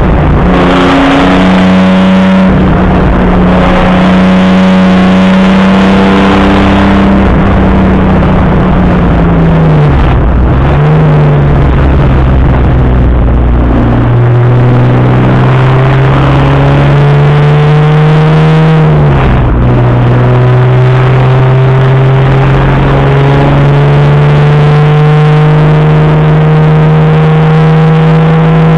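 Opel Commodore A's straight-six racing engine, heard from inside the car, running hard at high revs. The revs fall away around eight to ten seconds in, then climb steadily under acceleration, drop sharply at a gear change about nineteen seconds in, and climb again.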